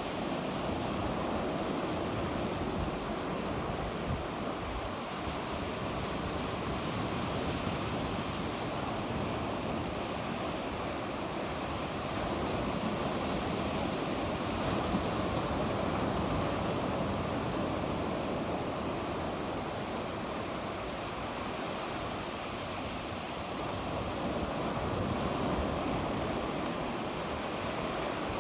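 Sea waves breaking and washing on the shore, a continuous surf that swells and eases slowly, with some wind on the microphone.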